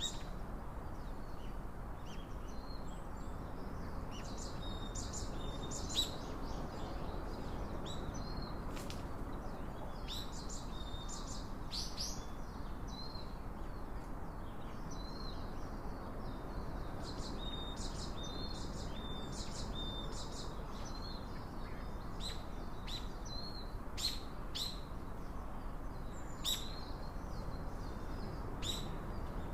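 Small birds chirping repeatedly, short high calls with a few brief whistled notes, over a steady low background noise.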